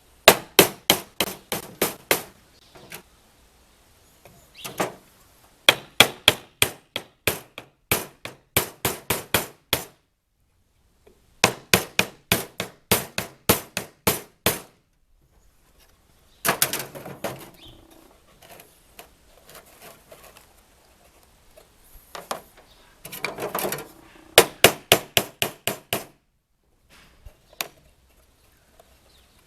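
Hammer driving nails into wood: several runs of quick strikes, about four or five a second, with short pauses between runs. There is a rougher scraping noise partway through.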